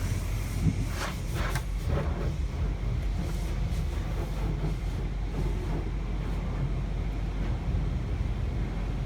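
Automatic car wash machinery running, heard from inside the car: a steady low rumble, with a few short swishes in the first two seconds.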